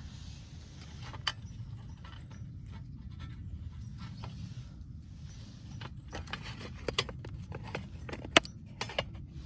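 Scattered light clicks and clinks of small hard objects, one about a second in and a run of them in the second half with the sharpest near the end, over a steady low rumble.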